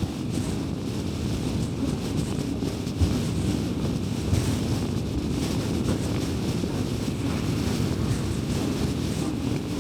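A car driving at speed: a steady low rumble of road and engine noise, with a couple of small bumps about three and four and a half seconds in.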